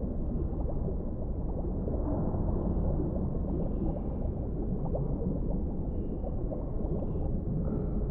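Underwater ambience: a steady, muffled rush of deep water with many small bubbling gurgles throughout.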